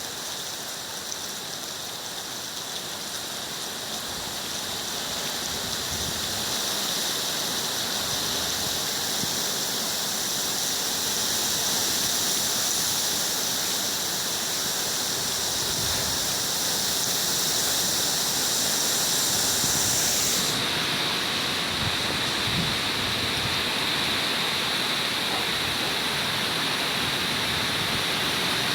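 Heavy rain falling in strong wind: a steady, dense hiss with a few faint low rumbles. About twenty seconds in the sound changes suddenly, losing some of its sharp high hiss.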